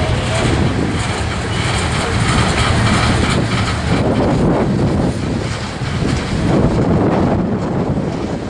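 Freight train cars, a boxcar and a line of tank cars, rolling past close by: a steady rumble and clatter of steel wheels on the rails. Wind buffets the microphone on top of it.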